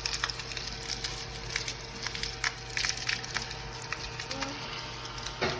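Small battery-powered desktop vacuum running with a steady hum while its stiff bristle brush is swept over crumbs on a countertop, with scattered crackling and clicking from the crumbs.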